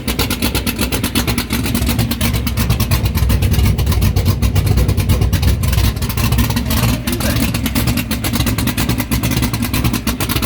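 Car engine with a big-lift racing cam running at a loud, choppy idle just after start-up, a rapid string of exhaust pulses, idling at about 700 rpm.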